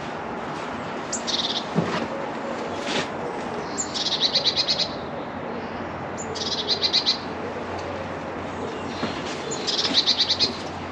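A bird calling in short bursts of rapid repeated high notes, heard four times, over a steady background hiss.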